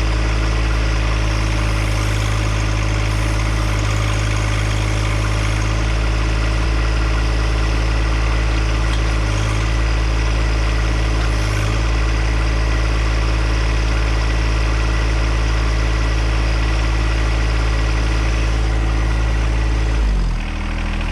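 John Deere compact tractor's engine running steadily at a constant speed, then slowing and dropping in pitch near the end.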